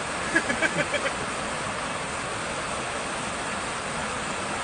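Steady, even hiss of a storm, unbroken for several seconds, with a voice briefly in about the first second.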